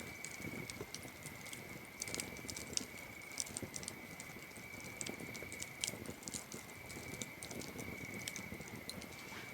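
Campfire crackling, with scattered sharp pops and ticks from the burning wood, over a steady high-pitched cricket trill that breaks off briefly now and then.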